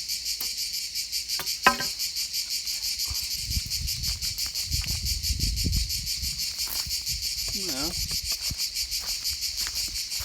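Insects chirping in a steady, rapidly pulsing high trill throughout. A single sharp knock about two seconds in, and a low rumbling handling noise in the middle, as the wooden shuttering is worked loose.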